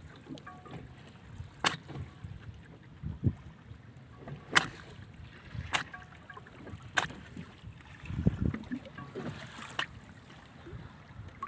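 Several sharp knocks, one every second or so, over low wind and water noise, with a louder low rumble about eight seconds in.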